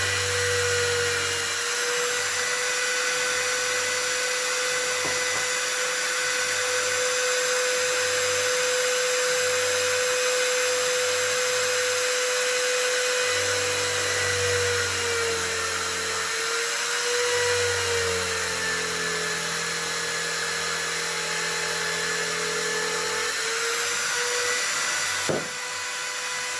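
Electric drill boring wide, half-depth countersink holes into a wooden plank. Its motor whine holds steady and sags slightly in pitch a few times under load.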